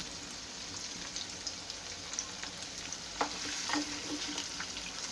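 Paneer cubes sizzling and crackling in hot oil in a frying pan. From about three seconds in, a wooden spatula scrapes and turns them in the pan.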